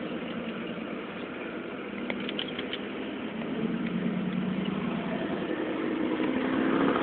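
Car engine and road noise heard from inside the cabin, a steady hum that grows gradually louder from about halfway through, with a few faint clicks about two seconds in.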